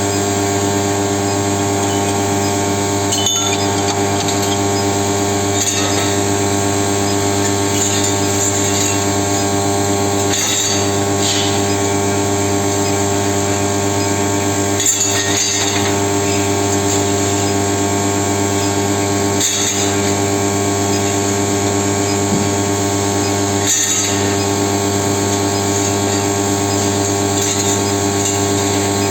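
A 25 kW induction heating machine running steadily while heating iron rod, a constant electrical hum with a high whine above it. Brief clinks come every four to five seconds.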